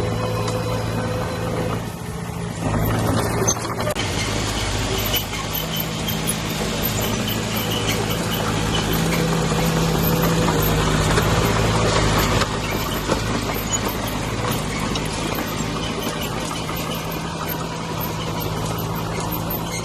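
Diesel engine of a small crawler bulldozer running under load. It swells for several seconds in the middle, then eases back.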